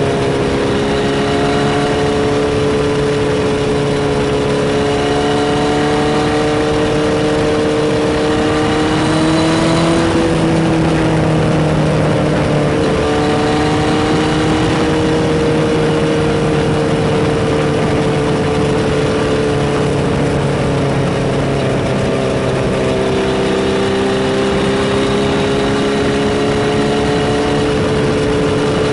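Kawasaki Z1000Mk2's air-cooled inline-four running steadily under way on Keihin FCR carburettors at moderate road speed. Its pitch rises a little about a third of the way in and eases off again later, over steady wind and road noise.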